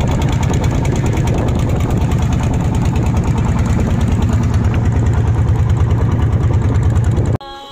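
Fishing boat's engine running steadily with a fast, even beat. It cuts off suddenly near the end, where music with singing begins.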